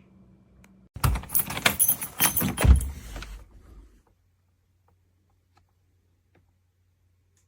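A burst of clattering and jangling, starting about a second in and lasting about three seconds, then near silence.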